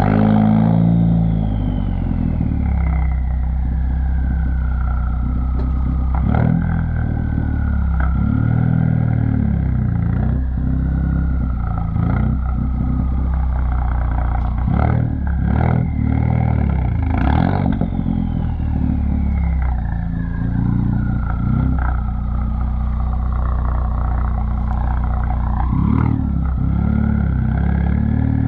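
2017 Ford Focus ST's 2.0-litre turbocharged four-cylinder running through a straight-piped exhaust just after start-up, loud and steady, its note dipping and rising a few times. A high whine glides slowly downward near the start and again about halfway through.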